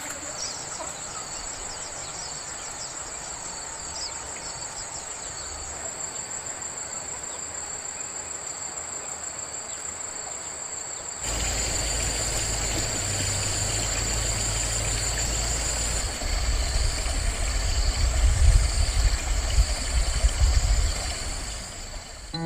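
Insect chorus: a steady, high, shrill buzzing drone. About halfway through it switches abruptly to a pulsing insect call over a low rumbling noise that becomes louder and uneven near the end.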